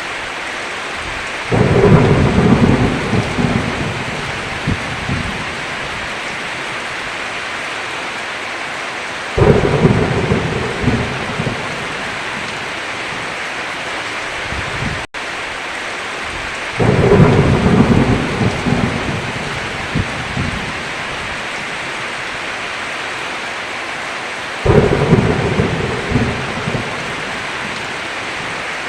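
Heavy rain falling steadily, with four rolls of thunder that break out suddenly about every eight seconds and rumble away over a few seconds each. The audio cuts out for an instant about halfway through.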